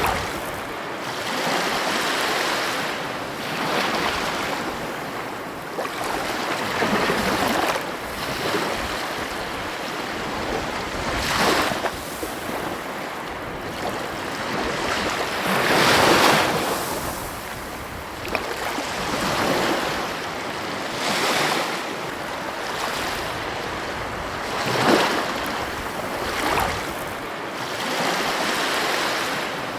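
Ocean waves breaking and washing on a beach: a continuous rushing surf that swells and fades every few seconds, with heavier breakers about 11 s, 16 s and 25 s in. Some wind noise on the microphone.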